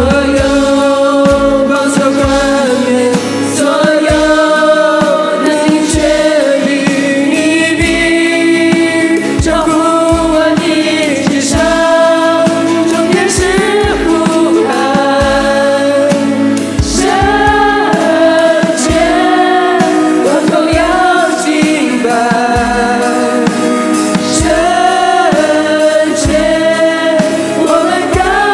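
Contemporary Christian worship song: several voices singing together over band accompaniment with a steady drum beat.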